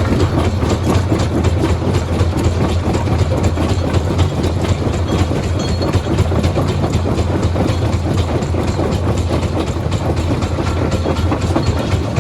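Stone crusher machinery running: a steady low drone under a dense, continuous clatter of rock.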